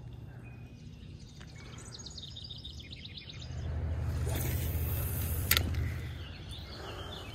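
A small bird sings a quick trill of repeated high chirps about two seconds in. Then a low rumble with a hiss on top swells for a couple of seconds, with one sharp click in the middle.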